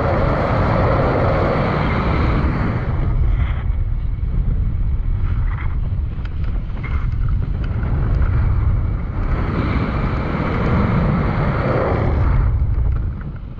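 Strong wind buffeting the microphone: a steady low rumble with rushing noise that swells in gusts at the start and again about ten seconds in.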